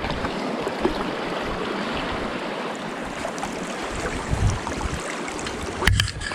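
Steady rushing of stream water, with a dull thump about four and a half seconds in and a sharp knock near the end.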